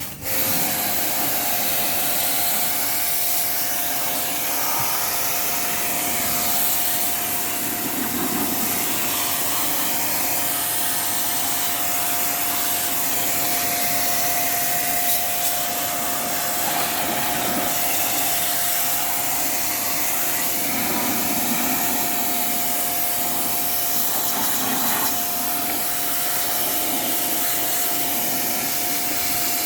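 A small electric motor-driven machine running steadily with a high, even whine, switched on abruptly at the start.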